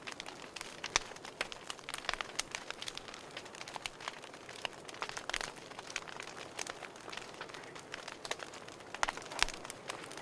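Burning firewood in a fireplace crackling: irregular sharp pops and snaps over a low steady hiss, with a few louder pops about a second in and again near the end.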